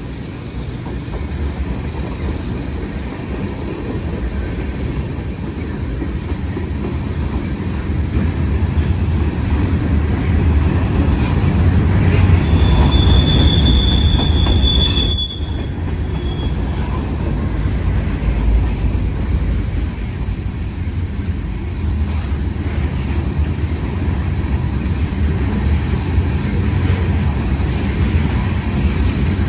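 CSX mixed freight train's cars rolling past with a steady low rumble and wheels clacking over the rail joints. Midway a high wheel squeal rings for a few seconds, and a single sharp clank comes near its end.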